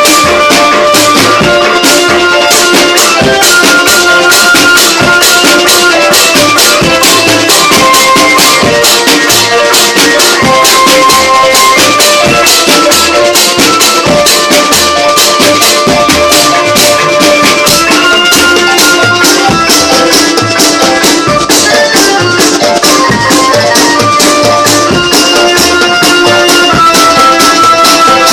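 Dangdut band music in an instrumental passage: a melody of held notes stepping up and down over quick, steady rattling percussion.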